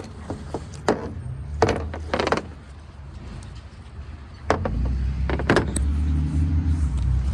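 A few clunks and rattles, then about four and a half seconds in a vehicle engine starts and runs with a steady low hum.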